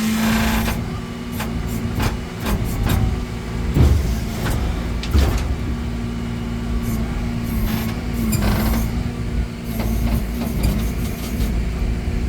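Rollback flatbed tow truck running its engine and bed hydraulics with a steady hum over a low rumble while a car is winched up the tilted bed. There are short hissing bursts at the start, about five seconds in and again around eight and a half seconds, with a few scattered knocks.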